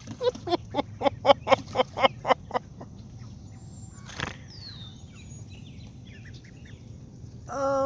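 Duck calling in a fast run of about a dozen short quacks over the first two and a half seconds, followed by one sharp click and a short low call near the end.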